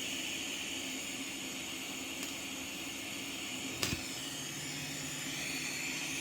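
Steady hiss and hum from a TIG welding setup. A single sharp click comes about four seconds in, and a lower hum joins after it.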